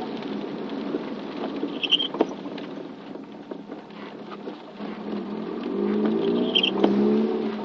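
Rain pattering on a moving vehicle, with scattered ticks of drops. The engine's steady hum drops away near the start and comes back in the second half, and there are two brief high chirps.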